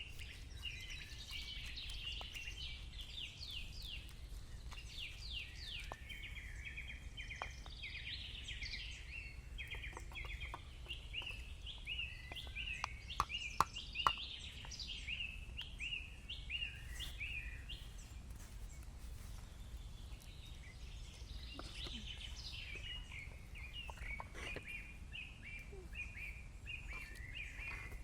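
Wild birds chirping and calling, many quick repeated notes overlapping without a break, over a steady low rumble. A few sharp clicks stand out about halfway through.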